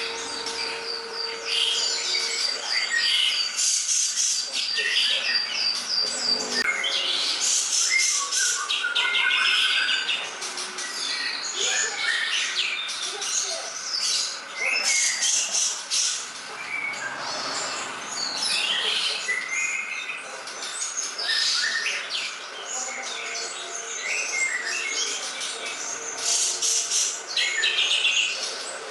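Green leafbird (cucak ijo) singing a continuous, varied song of quick chirps, whistles and chattering phrases, opening with a fast run of evenly repeated high notes over the first few seconds.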